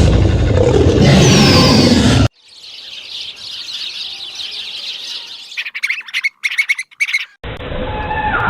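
A loud rushing noise for about two seconds, cut off sharply. Then comes a dense chorus of high bird chirping, followed by several short, sharp repeated calls. A different clip with steady pitched calls begins near the end.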